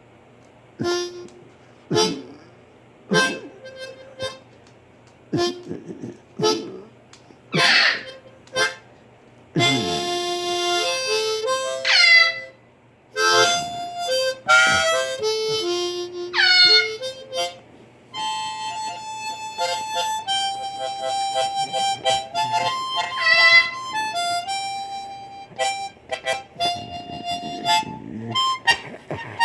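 Blues harmonica played in short, spaced stabs for the first ten seconds or so, then in continuous phrases with bent notes, settling into a held melody in the second half. A couple of short, sharp parrot squawks from eclectus parrots come in among the early notes.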